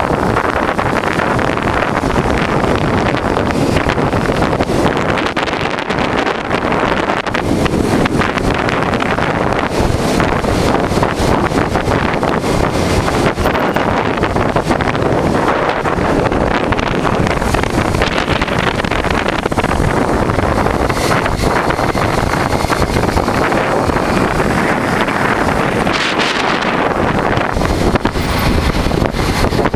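Steady wind rush buffeting the microphone of a motorcycle riding at speed, with the 1988 Honda Transalp's engine running underneath.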